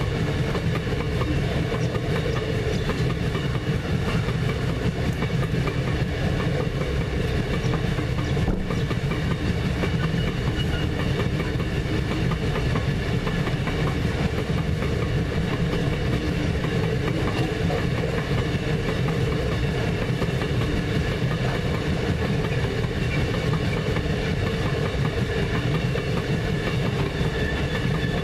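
Iron ore train's hopper wagons rolling past, their steel wheels running on the rails in a steady rumble with a steady ringing tone over it.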